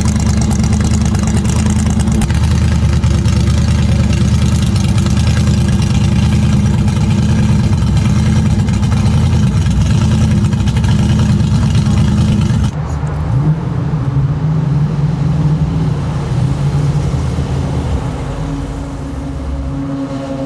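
Classic car engine running at idle with a deep, steady note. About two-thirds of the way through the sound changes abruptly to another, quieter engine whose pitch rises and wavers briefly as it revs.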